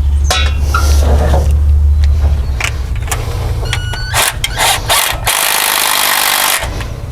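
Wrenches at work on the carburetor's mounting nuts, with scattered metal clicks and knocks. A steady low hum runs for the first two seconds or so. About five seconds in comes a burst of harsh noise lasting just over a second.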